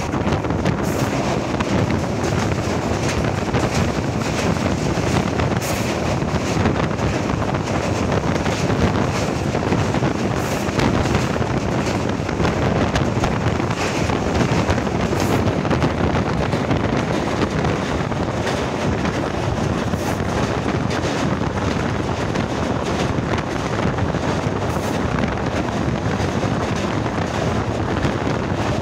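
Passenger train running at speed, heard from inside the carriage at an open door: a steady rumble of the running gear with wind buffeting the microphone.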